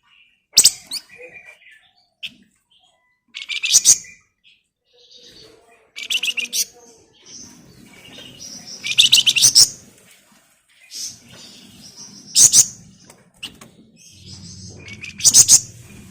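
Flamboyan songbird singing in short, loud bursts of rapid, buzzy trills, about six bursts a few seconds apart, the rattling chatter that keepers call ngebren and nyerecet.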